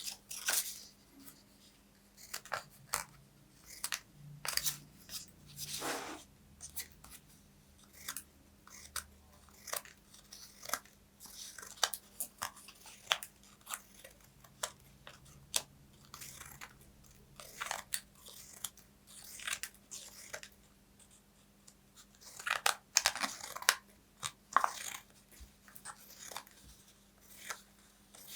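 Paper being crunched and torn in short, crisp, irregular strokes, with a denser, louder run of crinkling late on.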